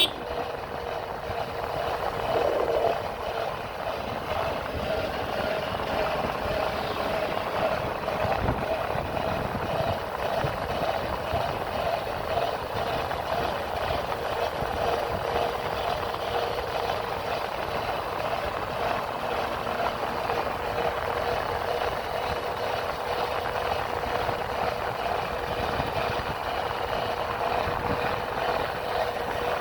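Motorcycle engine running at a steady speed while riding, with a constant hum and rushing wind noise.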